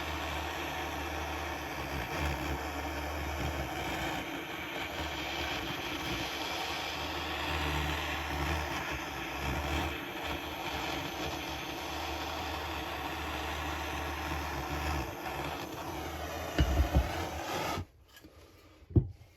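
Handheld gas blowtorch burning steadily, heating a chainsaw crankcase half to loosen the crankshaft bearing; it shuts off suddenly near the end, with a few sharp knocks around the cut-off.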